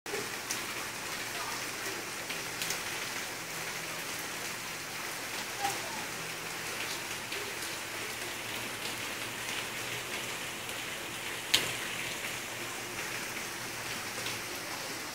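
Heavy rain falling steadily on pavement, with scattered sharp ticks of drops and one louder sharp tap about three-quarters of the way through.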